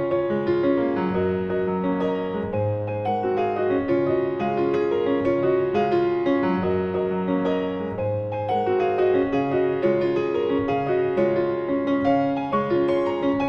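Background piano music: an even, flowing keyboard piece with a deep bass note returning every two to three seconds.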